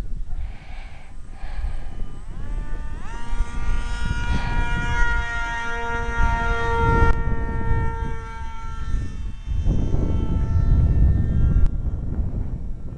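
Small brushless electric motor and propeller of an RC plane whining overhead. The pitch climbs sharply about two to three seconds in, then holds steady and fades away. Wind rumbles on the microphone throughout, heaviest near the end.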